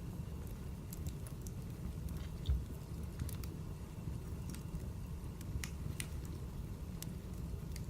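Wood fire crackling: irregular sharp pops and snaps over a steady low rumble, with one soft low thump about two and a half seconds in.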